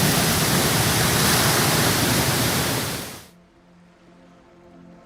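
Heavy rush of falling water from Hogenakkal waterfall, a dense, even noise that fades out quickly about three seconds in. Faint soft music with held notes is left after it.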